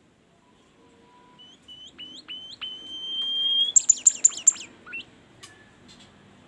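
A songbird known to keepers as a 'bimoli' singing a song burst. It gives a quick series of short whistles, each hooking upward, then holds one long whistle that slowly rises. It ends, about four seconds in, with a loud, fast run of sharp high notes, followed by a few single notes.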